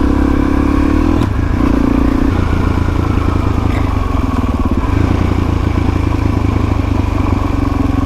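Dirt bike engine running at low, fairly steady revs, the pitch dipping and rising slightly, with a brief click about a second in.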